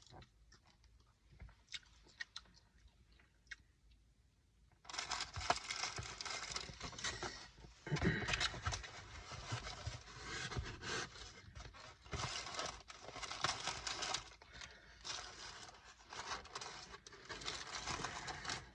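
A few faint clicks, then from about five seconds in a long spell of loud, irregular rustling and scraping as takeout food packaging is handled.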